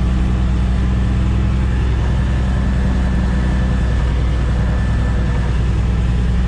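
Engine of a loaded truck running steadily as it drives up a gravel road, a low, even hum with no change in speed.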